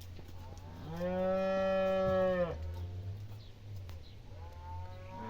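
A cow mooing: one long, steady call lasting about a second and a half, with a second call beginning near the end, over a low steady hum.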